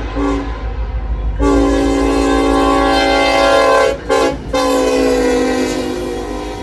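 Freight locomotive's multi-chime air horn sounding a sequence of blasts: a brief toot, a long blast, a short one, then a final long blast that fades. Under the horn is the steady low rumble of the train.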